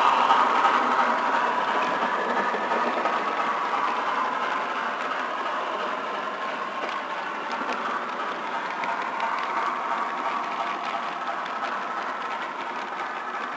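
HO scale model train running on the layout, a steady rumble of wheels on track with faint clicking, slowly fading as it moves away.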